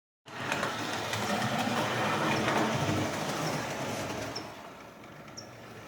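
Lionel electric toy train running on its track, a steady motor whir and wheel clatter that dies down about four seconds in, followed by faint, regular high squeaks about once a second.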